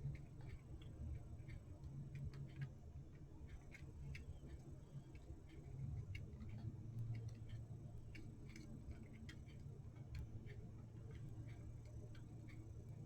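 Light, uneven clicks and taps of small clock parts being handled and fitted back onto a wall clock's movement, over a steady low hum.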